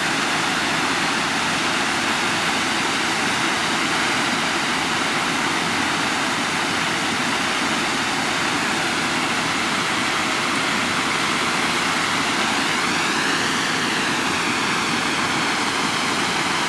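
Swollen creek in flash flood, its floodwater rushing in a steady, unbroken noise.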